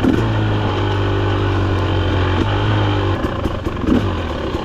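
2024 Husqvarna TE300 TBI's two-stroke single-cylinder engine, breathing through an FMF header and pipe, pulling at a steady throttle under way on the trail, then easing off about three seconds in.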